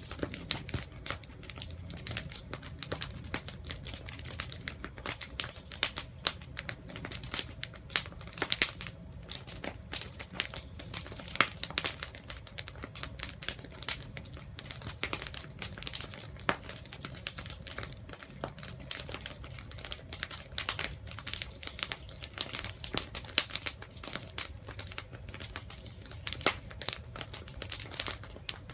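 Wood fire crackling, with many irregular snaps and pops.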